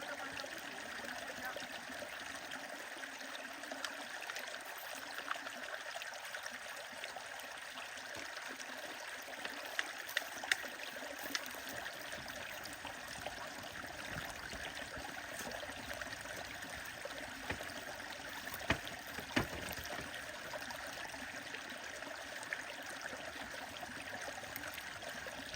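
Stream running steadily over rocks, with a few sharp snaps or cracks about ten seconds in and again near two-thirds through.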